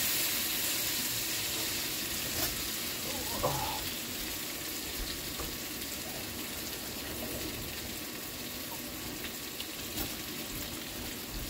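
Sliced apples and chunks of roasted acorn squash sizzling in a skillet as they sauté: a steady frying hiss that slowly dies down, with a couple of faint clicks.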